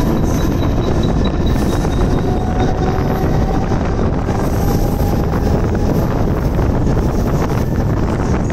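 Mumbai suburban electric local train picking up speed out of a station, heard from the open coach doorway: a steady rumble of wheels and running gear with wind buffeting the microphone, and a faint motor whine that climbs slowly in pitch.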